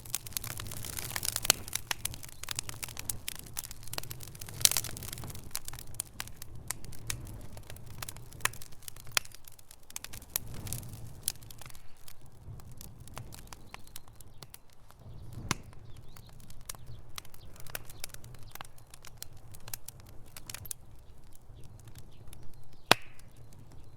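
Wood fire in a fireplace crackling: a rapid scatter of pops and snaps, dense for the first few seconds, then thinning. One louder pop comes near the end, over a low steady rumble.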